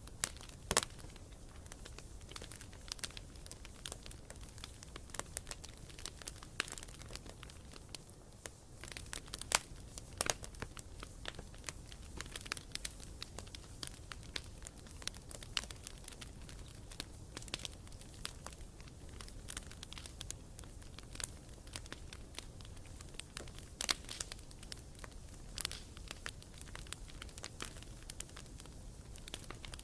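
Wood campfire crackling: irregular sharp pops and snaps scattered throughout, over a steady low rumble.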